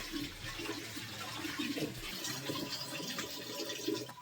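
Water splashing and pouring.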